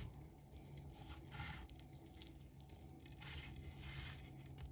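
Faint, intermittent squishing and scraping of a knife cutting through raw chicken wing meat and skin.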